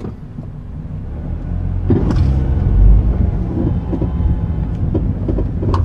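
Honda Stream engine running and pulling harder, its rumble building over the first three seconds, with intermittent short metallic creaks from under the throttle and brake pedals. The creaks sound like two dry, unlubricated metal parts pulling against each other. The owner's first guess is a failing engine mount.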